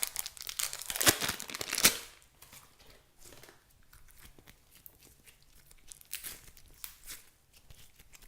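Crinkling, tearing handling noise, loudest in the first two seconds, then quieter scattered rustles and clicks.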